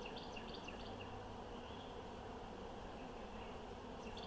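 Faint, steady buzzing of honeybees flying around an opened hive. Short high chirps come near the start and again near the end.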